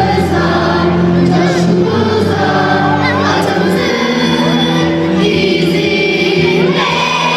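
Choir of students singing to musical accompaniment.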